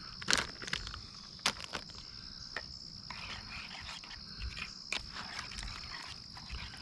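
A steady high-pitched chorus of calling frogs or insects, with a few sharp clicks and soft crinkling as shredded cheese is shaken from its plastic bag into a bowl.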